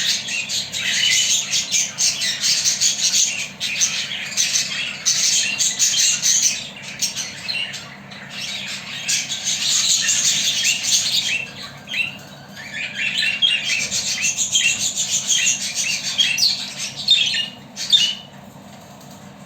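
Pet budgerigars chattering: fast, busy high-pitched notes in bursts of a few seconds with short gaps, stopping shortly before the end.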